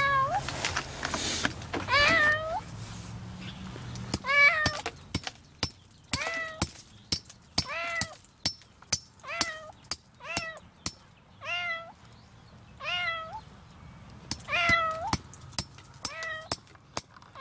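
A kitten trapped in concrete meows over and over, about eleven rising-then-falling calls, one every second or so. Sharp knocks from hammering at the concrete come between the calls.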